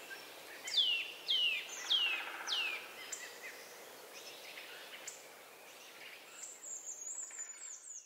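Songbirds singing: four quick notes about a second in, each sliding sharply down in pitch, then a very high-pitched twittering near the end, over a faint steady hiss.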